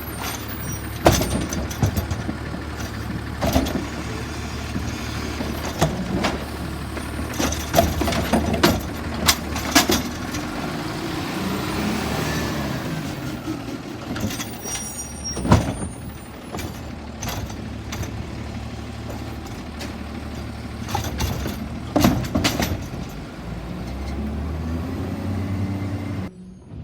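Autocar Xpeditor garbage truck with a Bridgeport Ranger automated side-loader body at work: the diesel engine runs and rises in pitch at times, with a series of loud bangs and clatters from the lifting arm and containers being dumped into the hopper. The sound cuts off suddenly near the end.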